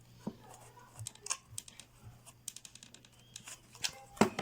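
Crafting handling noises: scattered light clicks, taps and scratches of a plastic bottle and cardboard box being handled and fitted together, with a couple of louder knocks near the end.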